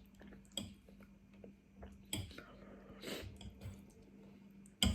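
Close-up mouth sounds of eating chewy Korean rice cakes in spicy sauce: irregular wet chewing squishes and lip smacks, with a sharper smack near the end.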